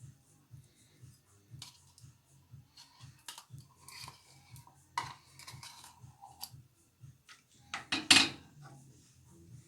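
Kitchen dishes and utensils clinking and knocking, with the loudest clatter about eight seconds in.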